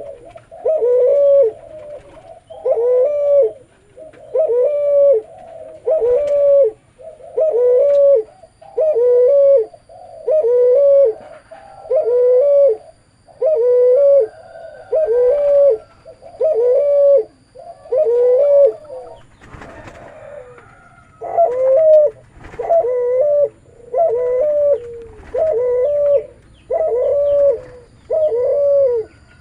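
A cuhu, a spotted dove × Barbary dove hybrid, cooing over and over in a low, bassy voice, about one coo phrase a second, with a short break about twenty seconds in before the cooing resumes.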